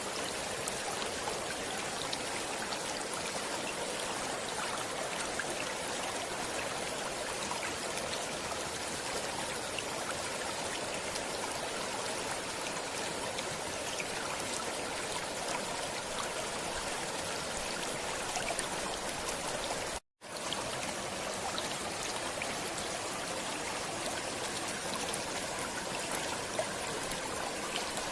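Stream water flowing steadily, an even rushing and trickling with no let-up, broken once by a momentary dropout to silence about two-thirds of the way through.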